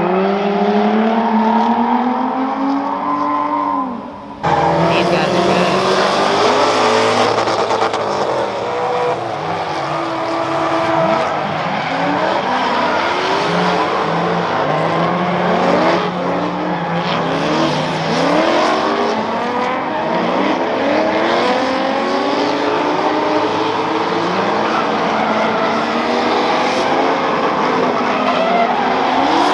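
Several drift cars' engines revving up and down over and over, their rising and falling notes overlapping, over loud tyre squeal as the cars slide through the course. The sound drops briefly and changes abruptly about four seconds in.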